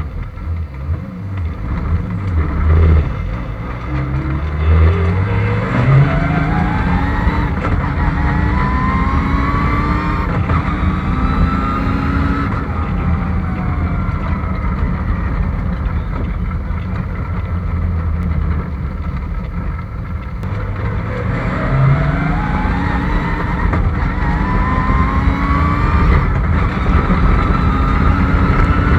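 Car engine being tuned through its engine-management computer, revving in two long pulls with its pitch climbing over several seconds each: the first starts about three seconds in, the second a little past the middle.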